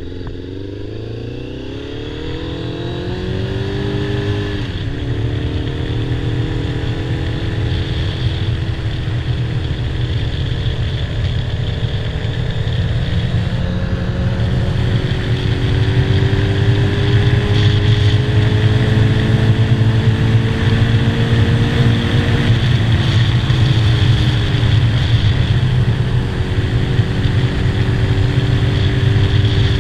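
2007 Kawasaki ZZR600's inline-four engine accelerating on the road. The pitch climbs quickly, breaks at a gear change about four seconds in, and rises slowly for a long stretch. About two-thirds of the way through the pitch drops and then holds steady as the bike cruises, getting louder overall.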